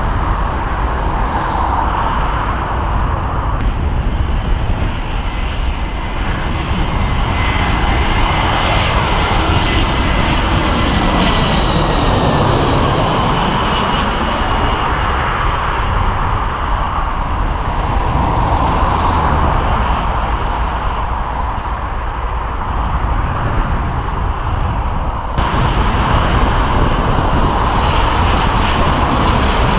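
Jet airliner on final approach passing low overhead, its engines giving a loud, steady rush with a high whine. The pitch falls as it passes, about twelve seconds in.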